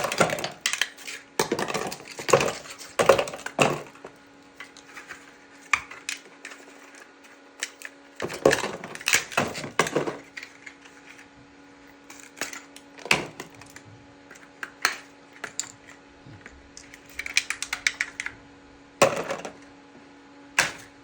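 Ice cubes clattering and clinking as they are dropped and shifted into a container, in irregular clusters of knocks and rattles, over a faint steady hum.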